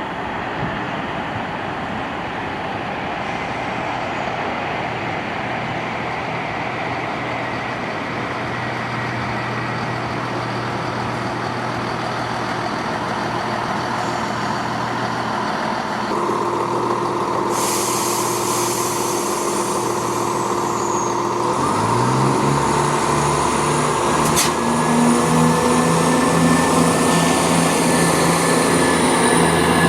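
A train approaching, its noise building steadily. About halfway through a steady whine joins in, and a few seconds later an engine or traction motor note rises as it picks up speed.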